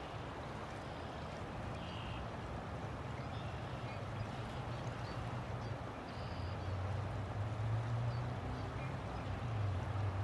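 River water flowing steadily, with a low hum underneath that grows louder about six seconds in.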